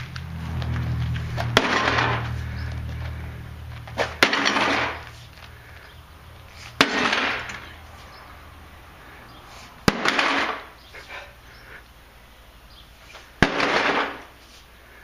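An old microwave oven being smashed: five heavy blows about three seconds apart, each followed by a short rattle of breaking glass and sheet metal. A low hum runs under the first blows and cuts off at the second one.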